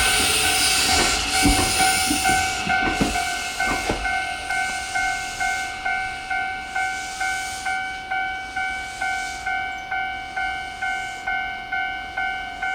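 A Kintetsu Nara Line train runs through a Japanese level crossing, its wheels clicking over the rail joints. The train noise dies away in the first few seconds. The crossing's warning bell keeps ringing with an even ding-ding about twice a second.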